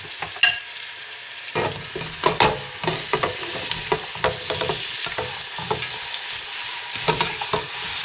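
Sliced bell peppers and onions sizzling in oil and butter in a metal pot, with a short clink about half a second in. From about a second and a half in, a wooden-handled spoon stirs them, scraping and knocking irregularly against the pot over the steady sizzle.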